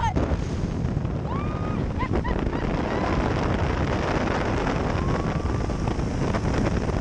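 Wind rushing over the microphone over the steady drone of a Travel Air biplane's engine in flight, heard from the open cockpit during a wingover.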